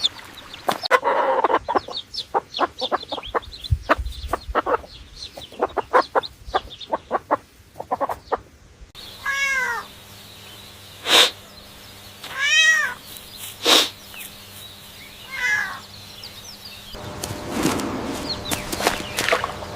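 Animal sounds: a rapid run of short clicking calls, then, after a cut, four separate rising-and-falling calls, each under a second long, with two sharp clicks between them. Near the end comes a noisy rushing stretch.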